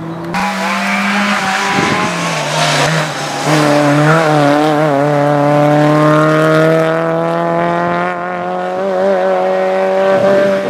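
Nissan Micra hatchback's engine held at high revs in a low gear through a cone slalom. The note wavers briefly through a turn, then climbs slowly as the car pulls away.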